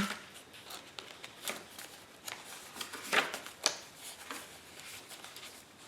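Paper pages of a handmade journal being turned and handled: a few short papery rustles and flicks, the loudest about three seconds in.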